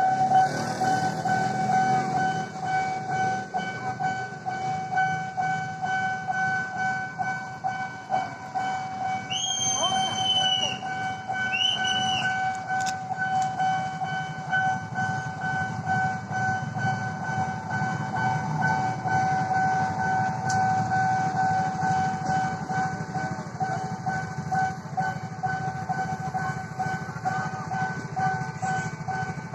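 Level-crossing warning bell ringing steadily while a train rumbles past. About ten seconds in the train's horn sounds twice, a longer blast and then a short one.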